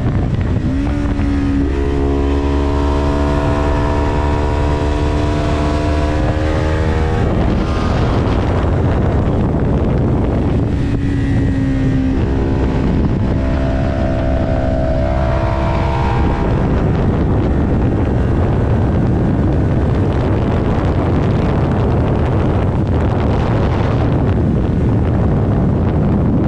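Heavy wind rushing over the microphone of a moving motorcycle, with an engine note that climbs in pitch twice: once for several seconds near the start, and again about halfway through.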